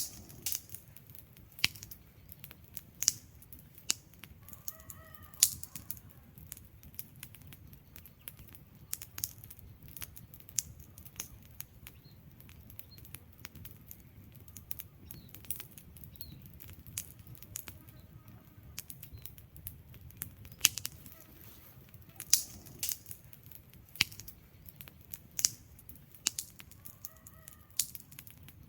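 Wood fire burning in a fireplace: logs crackling and popping in sharp, irregular snaps over a low, steady rumble of flame.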